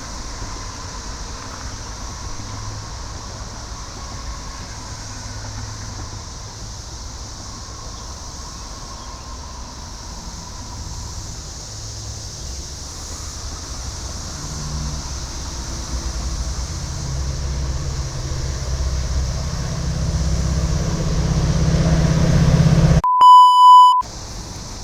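Steady drone of a cicada chorus, with a Metra commuter train's low rumble building slowly as it approaches, loudest about twenty seconds in. Near the end a loud, steady electronic beep cuts in for about a second.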